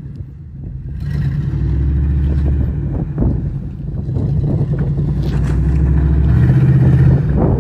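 An engine running with a steady low hum that grows louder about a second in and again near the end. A short scrape comes about three seconds in.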